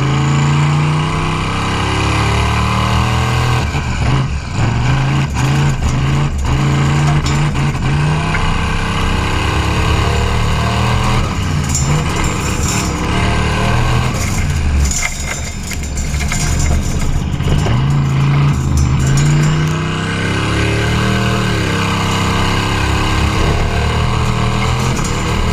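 Classic car's engine accelerating hard up a hill climb, its pitch climbing and then dropping back at each of several gear changes.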